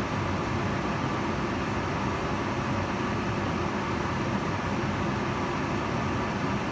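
Kitchen range hood fan running steadily: an even airy whoosh with a low hum underneath.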